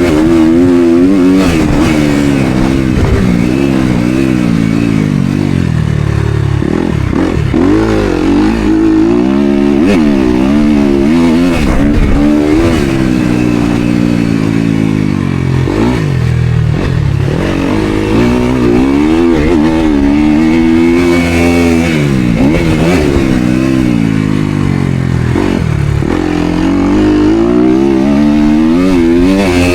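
Motocross dirt bike engine at race pace, its pitch rising and falling again and again every few seconds as the throttle opens and closes and the gears change.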